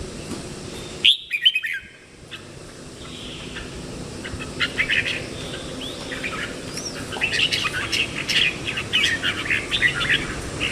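Red-whiskered bulbul calling: two loud notes about a second in, then after a short lull a run of quick, short chirps that grows busier toward the end.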